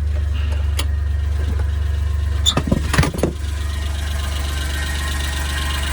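Suzuki F6A three-cylinder turbo engine of a kei truck idling steadily with a low hum, with a short cluster of clicks and knocks about halfway through.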